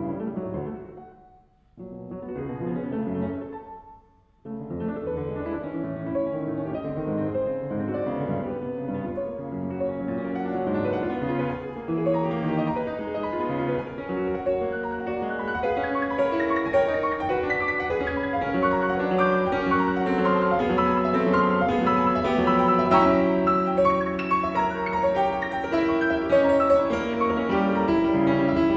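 Background piano music, a few short phrases with brief pauses at the start, then a continuous flowing passage that grows fuller.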